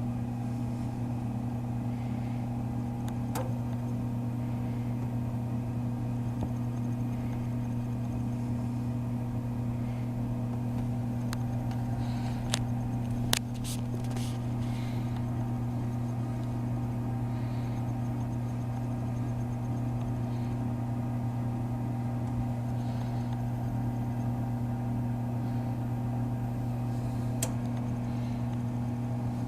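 Toaster oven running with a steady electrical hum, with a few sharp ticks about a third of the way in, around the middle and near the end.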